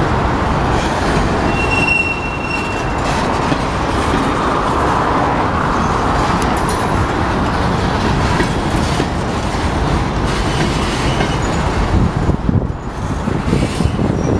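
Freight cars of a slow-rolling Union Pacific train passing close by, their wheels rumbling steadily over the rails. A brief high squeal comes about two seconds in.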